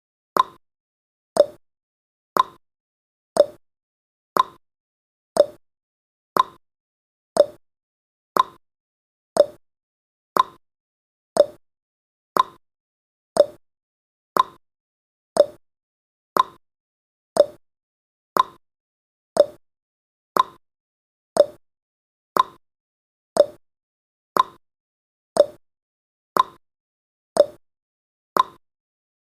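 Countdown timer's ticking sound effect: one short click each second, alternating higher and lower like a clock's tick-tock, steady throughout.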